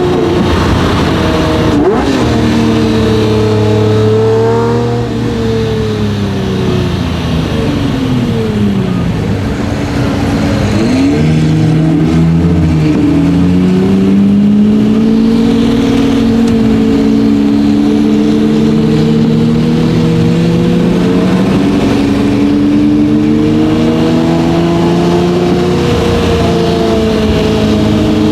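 Lamborghini Murciélago LP640's 6.5-litre V12 with a straight-piped Fi Exhaust, driven hard on the road. Its note falls away twice in the first half as the car slows, then climbs steadily through the second half under acceleration.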